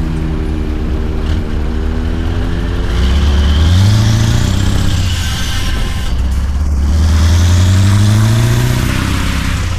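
Scania V8 truck engine pulling under load: its pitch rises, drops about four seconds in as if at a gear change, then climbs again. A high whistle rises and falls along with the engine.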